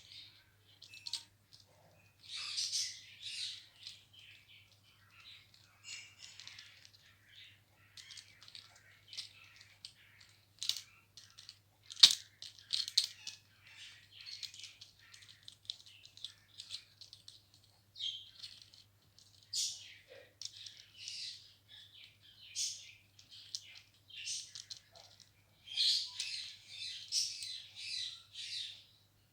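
Indian ringneck parrot chirping and rattling its toys: a steady run of short, scratchy chirps and clicks, with one sharp knock about twelve seconds in.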